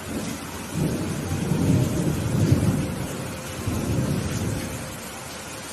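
A roll of thunder rumbling over steady rainfall: the rumble swells about a second in, peaks in the middle, rolls again near the four-second mark and fades away, while the rain keeps hissing.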